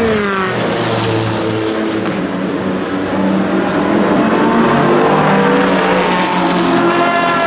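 Dallara SP1's Judd V10 racing engine: the pitch drops sharply at the start, then climbs steadily as the car accelerates, with a quick drop near the end like an upshift before it rises again.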